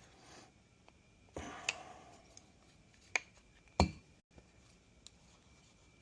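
Metal engine parts being handled on a workbench: a short rustle, then a few sharp clinks and knocks about a second apart.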